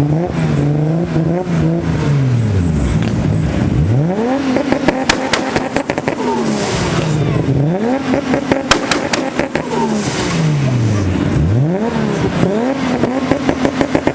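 Performance car engine revved over and over, climbing, holding high for a couple of seconds, then dropping away, with a run of sharp exhaust pops and crackles through the middle.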